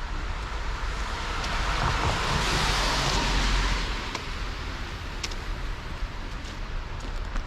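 A car passing by on a city street: its tyre and road noise swells about two seconds in, peaks near the middle and fades away, over a steady low traffic rumble.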